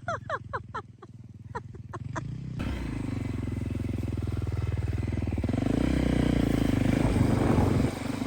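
A run of about eight quick, falling chirps, then a four-wheeler's engine comes in about two and a half seconds in. The engine runs steadily and grows louder, then drops off near the end.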